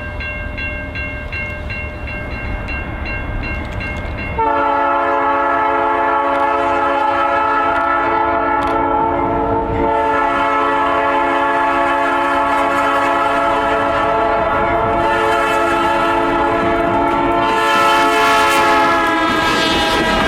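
Diesel freight locomotive's air horn blowing for a grade crossing: a long blast that starts about four seconds in, breaks briefly around ten seconds in, and is then held to the end. Before the horn, a grade-crossing bell rings in a fast steady pulse.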